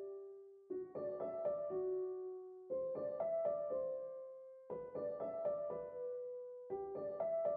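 Background piano music: a short, gentle phrase of a few quick notes repeating about every two seconds, each note ringing out and fading.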